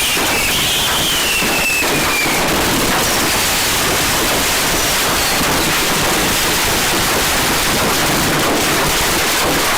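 Fireworks going off: a steady, dense hiss and crackle, with a falling whistle in the first couple of seconds.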